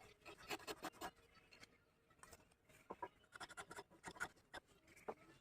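Faint, irregular scratching with a few light taps from hand work on wood.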